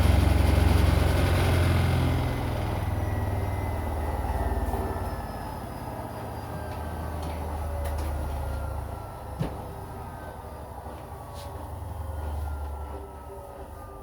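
Washing machine drum spinning down at the end of a spin cycle: the motor's low hum fades and a whine falls steadily in pitch as the drum slows. A single click comes about nine seconds in.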